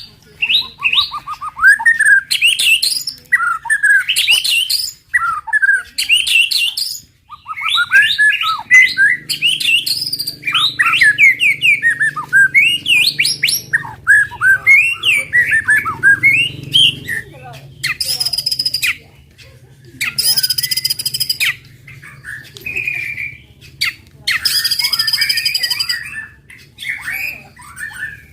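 White-rumped shama (murai batu) singing fast, varied phrases of quick whistled notes sliding up and down. In the last third the song turns to several harsh, buzzy bursts, each about a second long.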